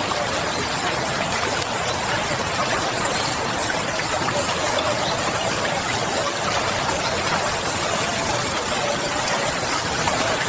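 A steady, even hiss of ambient noise with no pauses or distinct events.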